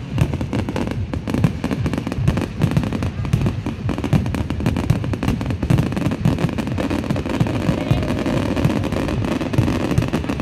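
Fireworks display going off in a dense, continuous barrage of rapid bangs and crackles with no pause.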